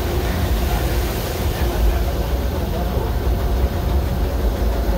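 Steady low rumble of a narrow-gauge Disneyland Railroad passenger coach rolling along the track behind a steam locomotive.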